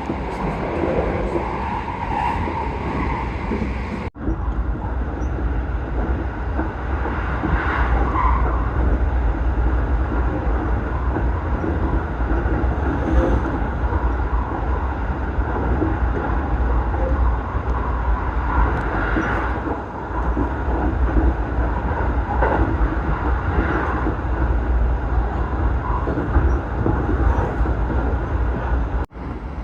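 Electric commuter train running between stations, heard from inside the car: a steady low rumble with wheel and running noise. Twice the sound drops out abruptly for a moment, about four seconds in and near the end.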